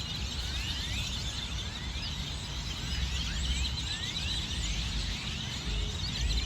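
A large flock of birds calling all at once: a dense chatter of many short, rising chirps overlapping, over a low outdoor rumble.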